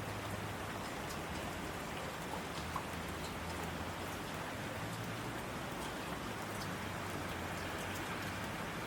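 Steady rain falling, with scattered individual drops ticking, over a low hum.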